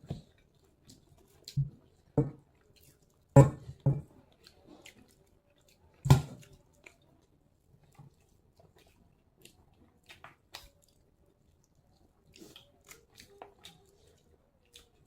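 A person eating chicken close to the microphone: irregular chewing and biting, with a few louder crunches or knocks, the loudest about three and a half and six seconds in.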